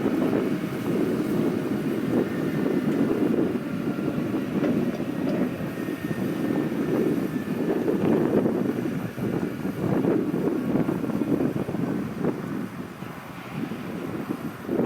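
Gusty wind buffeting the microphone, swelling and dropping irregularly, with a faint steady high whine underneath.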